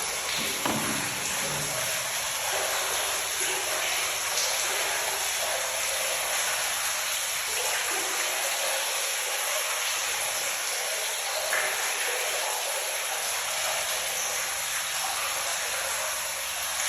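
Rainwater running and splashing into an open cistern from the roof spouting, a steady rushing noise.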